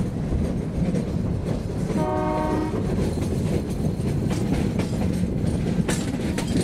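Meter-gauge passenger train running with a steady rumble and wheel clatter. About two seconds in, the locomotive gives one short horn blast, as is done at a whistle board for a level crossing. Near the end the wheels click sharply a few times.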